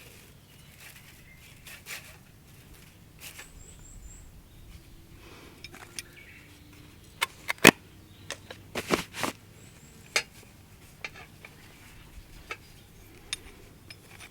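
Scattered clicks and knocks of objects being handled, loudest in a cluster about eight to nine seconds in. A bird chirps faintly a few times.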